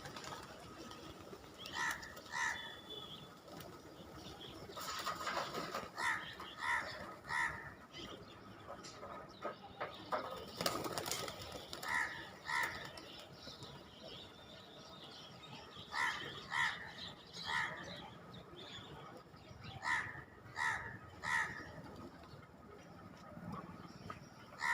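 Birds calling in short groups of two or three notes every few seconds, with bursts of wing flapping and rustling about a fifth of the way in and again near the middle.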